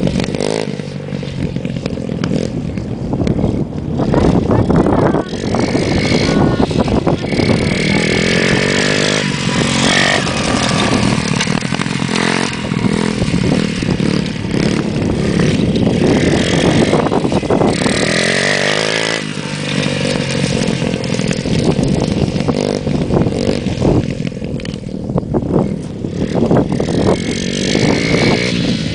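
Motocross bike engine running and being revved, its pitch rising and falling again and again.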